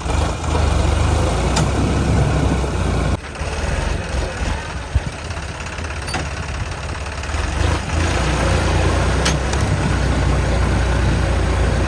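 Sonalika DI-35 tractor's diesel engine running steadily, with an abrupt drop in level about three seconds in and a single sharp knock about five seconds in.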